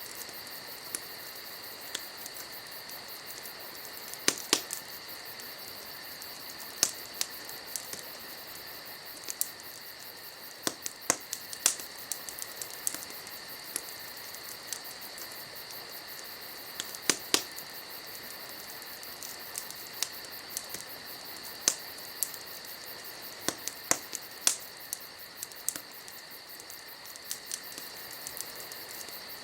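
Campfire of burning wood crackling, with sharp, irregular snaps and pops scattered through, over a steady high-pitched insect chorus.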